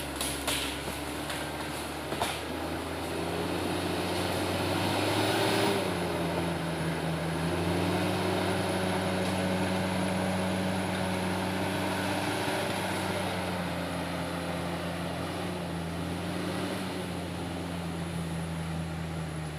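Komatsu D68ESS crawler bulldozer's diesel engine running with a steady drone, its pitch rising a little about six seconds in and easing off later. A few sharp knocks come in the first couple of seconds.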